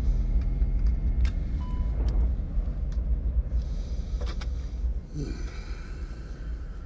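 Airbus A320 airliner climbing out just after takeoff, heard from the cockpit: a steady deep engine and airflow rumble that eases after about five seconds. A few sharp clicks and one short beep sound about a second and a half in.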